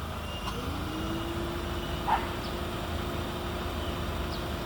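A vehicle engine running with a low rumble, its tone rising about half a second in and then holding steady. A brief sharp sound about two seconds in, and a couple of faint short high chirps.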